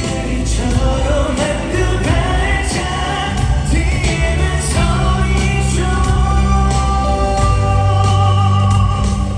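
A live pop song performed with a band: sung vocals over bass and drums, with cymbal hits.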